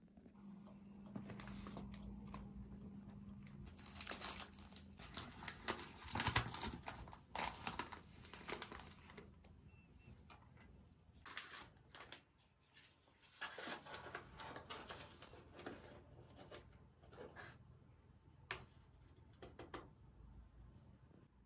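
Irregular crinkling and rustling in bursts with short pauses, over a low steady hum during the first few seconds.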